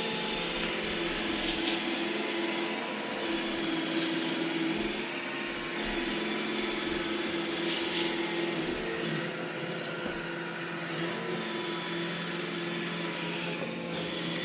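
iRobot Roomba E6 robot vacuum running steadily, a constant motor and brush hum with a few brief clicks.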